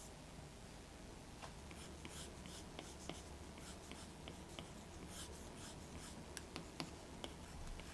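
Faint, scratchy strokes of a drawing or painting tool moving across watercolour paper, several short strokes in quick succession with a few light ticks between them.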